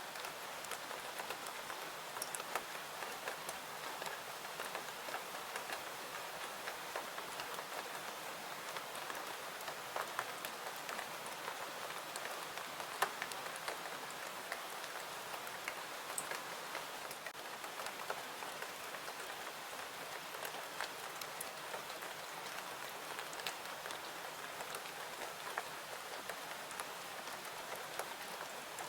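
Steady rain falling, an even hiss with many small sharp ticks and pops scattered through it; one pop about halfway through stands out above the rest.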